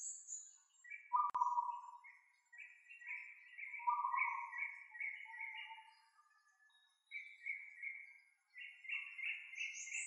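Forest birds singing: runs of short whistled notes, several a second, with lower whistles in between and high thin calls at the start and near the end. A single sharp click comes about a second in.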